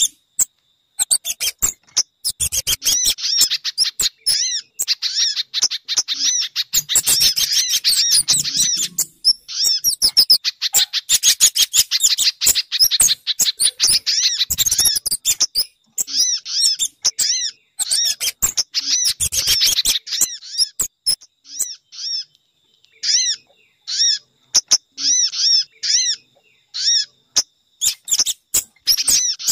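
Bird-lure recording of small songbirds calling: rapid, dense high chirps that thin into short separate bursts in the last third.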